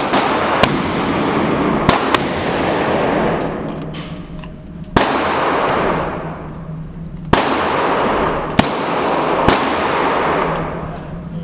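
Handgun shots at a shooting range: about eight sharp cracks spaced irregularly, two of them close together about two seconds in, over a steady loud rushing noise.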